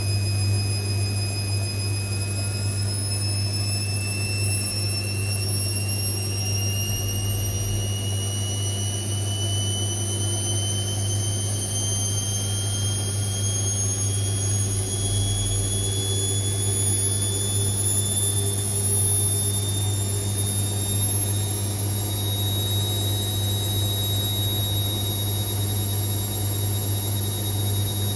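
Indesit IWC6165 washing machine draining and spinning up: a steady low hum cuts in suddenly, while a high-pitched motor whine rises slowly in pitch as the drum gathers speed.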